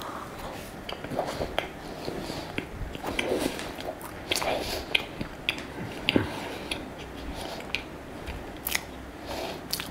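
A person biting into and chewing a mouthful of packaged croissant close to the microphone: soft chewing with scattered small, irregular clicks.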